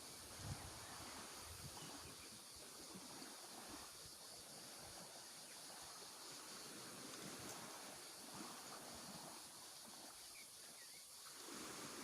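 Near silence: faint outdoor background hiss that swells and eases gently.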